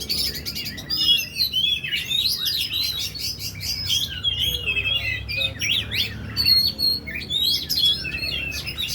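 Oriental magpie-robin (kacer) singing a fast, varied song of sharp whistles, chips and rapid trills, with no pauses.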